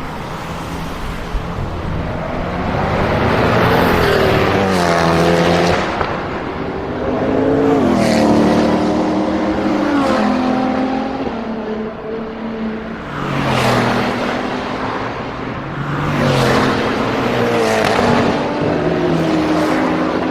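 High-performance car engines accelerating and revving, the pitch climbing and dropping about four times as cars pull away and pass one after another.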